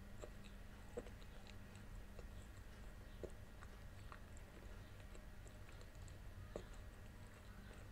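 Quiet chewing of a soft Turkish pie (pide with meat and cheese filling), with soft wet mouth clicks and a few sharper ones about one, three and six and a half seconds in, over a faint steady low hum.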